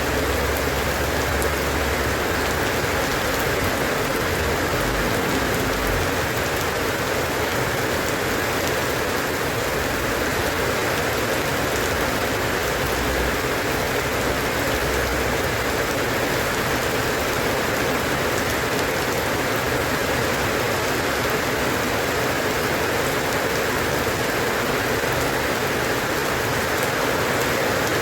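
Steady rain falling, an even hiss of rain on a surface, with a low rumble underneath during the first half.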